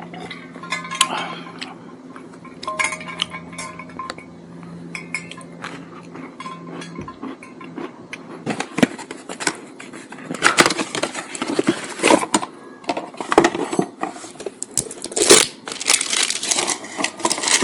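Hard parts and tools clinking and rattling as they are handled, sparse at first and busier from about halfway on, over a steady low hum that stops about seven seconds in.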